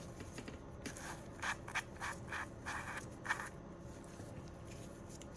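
A series of short rubbing and scraping sounds, clustered between about one and three and a half seconds in, as a small nail-product container is handled.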